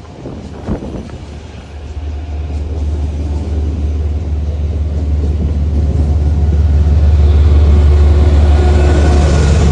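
A train approaching, its low rumble building steadily over several seconds until it is loud in the second half, with a faint steady whine joining it near the end. A single short knock sounds about a second in.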